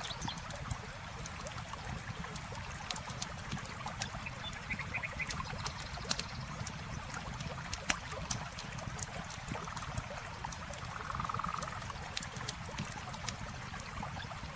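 Wood campfire crackling, with frequent sharp pops and snaps, over the steady rush of a flowing river. A couple of brief buzzing animal calls come through, one near the middle and a longer one towards the end.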